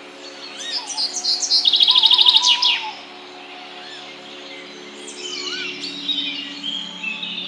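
Wild birds calling in a morning chorus: about a second in, one bird gives a loud, fast run of repeated high notes lasting about two seconds, then quieter chirps and whistles follow. A steady low hum runs underneath.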